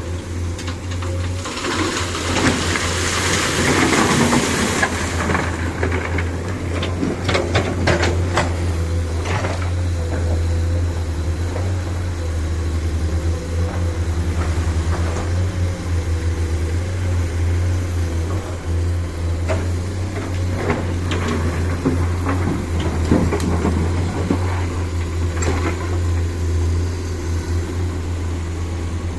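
Dump truck diesel engine running with a steady low drone, with a burst of hissing noise from about a second and a half to five seconds in and scattered knocks and rattles.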